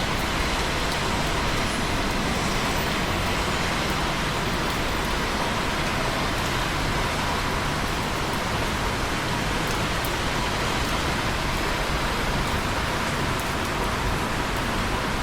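Steady rain falling on a surface, an even continuous hiss with faint scattered drop ticks.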